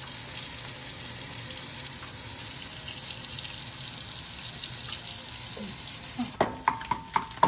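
Kitchen tap running steadily into a sink, shutting off about six seconds in, followed by several sharp metallic clinks of a utensil against a pan or pot.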